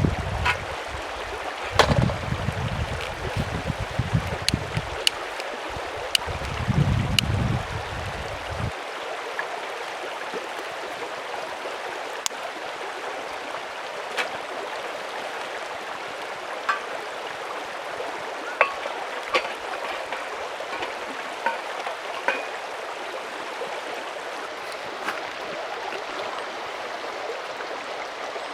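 Steady rushing of a mountain stream, with scattered small clicks and pops throughout. Low rumbles come and go in the first several seconds, then stop.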